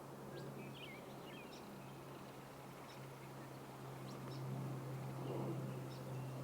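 Faint, short bird chirps over a steady low hum.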